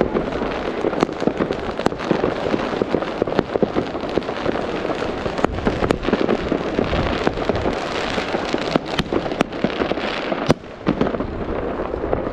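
Fireworks going off: a dense, continuous crackle of many small pops and bursts, with one sharper bang about ten seconds in.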